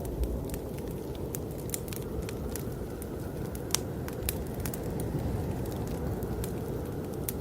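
Fireplace crackling, with irregular sharp pops, over the steady low rush of blizzard wind.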